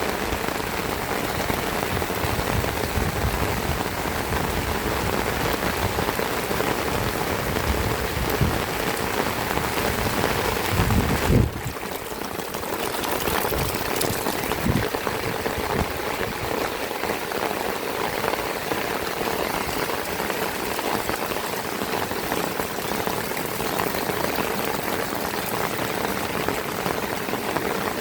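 Heavy rain falling steadily, an even hiss of drops. For the first eleven seconds or so a low buffeting rumbles under it, ending abruptly with a brief louder burst.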